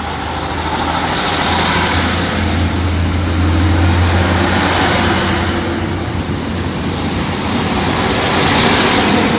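Diesel multiple-unit train pulling away from the platform, its engine running with a loud, deep, steady drone under a wash of wheel and rail noise that swells and then swells again near the end.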